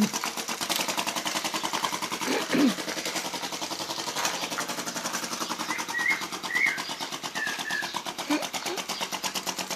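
Small model flame-licker (vacuum) engine on a toy tractor running, its valve ticking at a fast, even beat.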